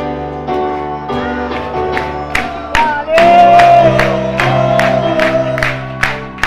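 Live rock band playing: the full band comes in suddenly after a quieter guitar passage, with a steady drum beat of about three hits a second. From about halfway through, a long held, slightly wavering lead note rides over sustained chords.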